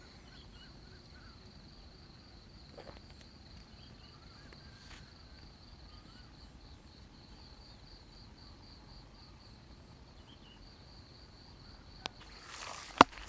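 An insect chirping steadily in a high, even pulse of about four chirps a second, with a few faint bird calls. Near the end come rustling and one sharp knock.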